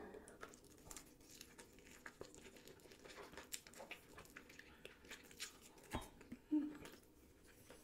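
Faint, close-miked chewing of a large mouthful of sushi roll: soft, irregular wet mouth clicks and crackles, with a brief hum about six and a half seconds in.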